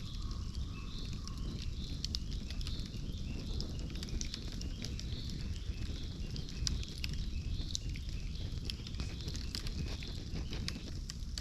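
Bonfire crackling with many sharp pops and snaps over a low rumble of burning, with small birds chirping in the background.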